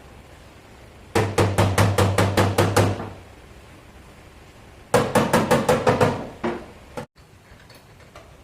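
Hammer beating sheet metal: two fast runs of about nine ringing blows each, a couple of seconds apart, then one or two single knocks. This is typical of beating out a dent in a car body panel.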